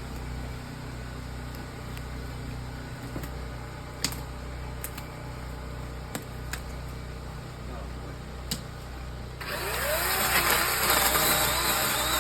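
An engine running steadily at a low idle, with a few sharp clicks or knocks, then revving up and running much louder, rising in pitch, about nine and a half seconds in.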